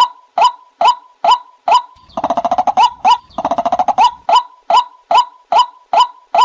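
White-breasted waterhen calling: a steady series of short, loud call notes at about two a second, broken about two seconds in by two rapid chattering runs of pulses. This is the call used as a playback lure for trapping the bird.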